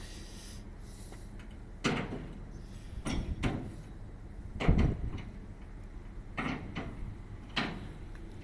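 A series of irregular knocks and bangs, about six, the loudest about halfway through, over a steady low hum.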